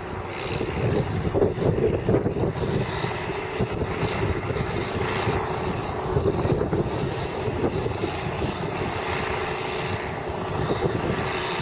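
Case tractor engine running steadily under load while plowing: a continuous drone with an uneven throb.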